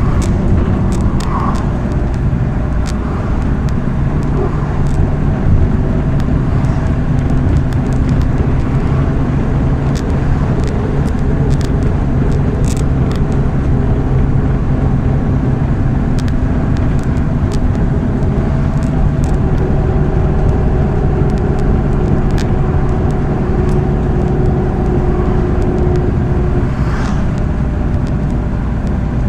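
MAZ-103 city bus under way, heard from inside the cabin: a steady diesel engine hum with road noise, the engine note shifting slightly as it drives, and frequent short clicks and rattles from the body.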